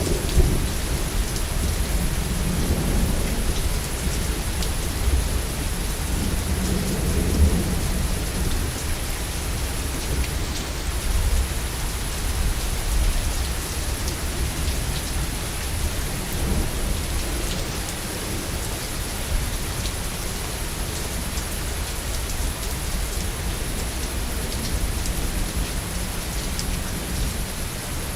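Heavy rain falling steadily, with low rolling thunder rumbling under it, the rumble strongest in the first several seconds.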